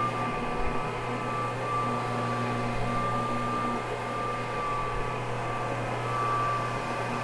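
Carpet-cleaning machine's motor running steadily as its soft brush scrubs cleaning solution into a wool rug, a constant hum with a high whine.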